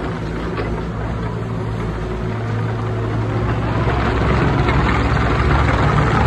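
JCB 8026 CTS mini excavator's diesel engine running steadily, rising in level from about two seconds in as it is loaded or revved.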